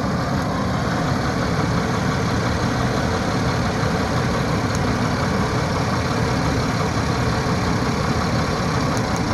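Oldsmobile engine idling steadily with a misfire on cylinder 2, which the owner puts down to a bad spark plug wire.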